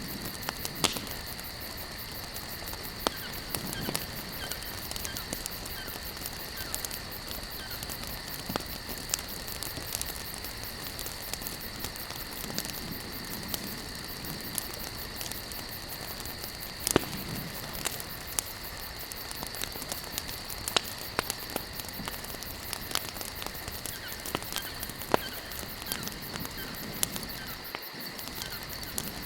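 Wood campfire burning, crackling steadily with sharp pops scattered irregularly over a soft hiss, one loud pop about seventeen seconds in. A steady high-pitched tone runs underneath.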